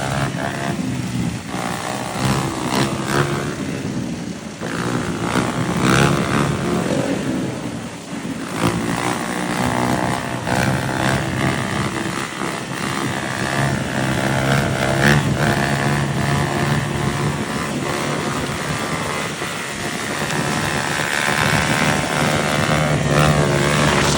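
Yamaha motorcycle engine running under way, its revs climbing and dropping again and again as the bike speeds up and eases off.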